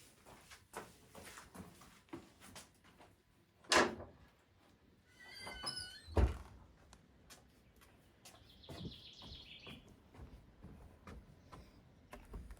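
Scattered light knocks and clatter, with a sharper knock just before four seconds and a dull thud about six seconds in. A short squeaky call comes shortly before the thud, and a high, fine trill follows about nine seconds in.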